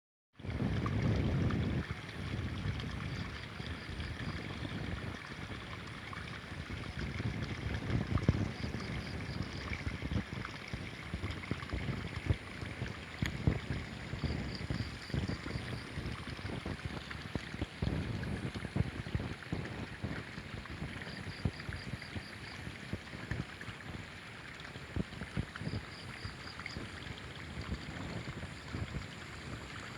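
Riverside ambience: wind buffeting the microphone in gusts over a steady rush of flowing river water. A short high pulsed call of a few quick notes repeats every few seconds.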